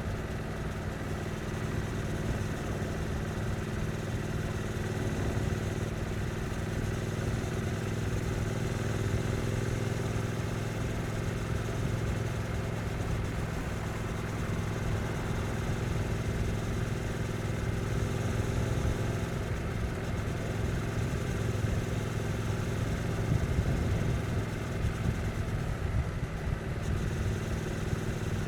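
Stock 2022 Triumph Street Twin 900's parallel-twin engine running at fairly steady, low revs in town riding.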